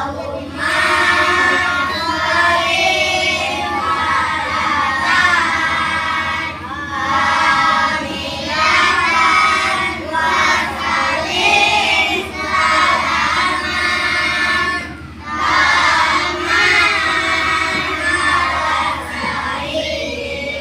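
Children singing a song in phrases, with short breaks between lines.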